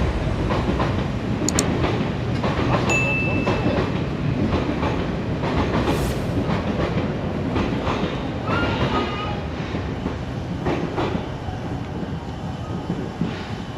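A train running past on the rails with a steady rumble and clattering wheels, and brief high squeals about three seconds in and again around nine seconds.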